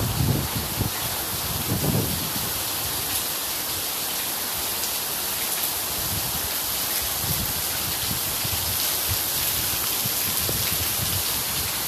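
Heavy rain pouring down in a steady hiss, with some low rumbling buffets in the first couple of seconds.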